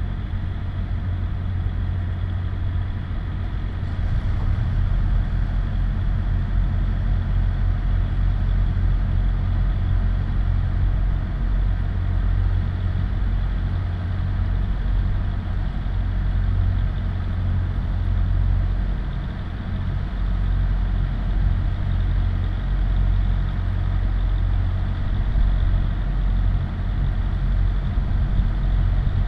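Car engine idling with a steady low rumble while stopped in traffic, growing slightly louder about four seconds in.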